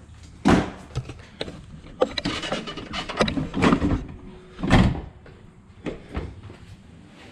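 Clicks, knocks and creaks with two heavier thumps, about half a second in and near five seconds in: the soft top of a Nissan 300ZX convertible being unlatched and folded down.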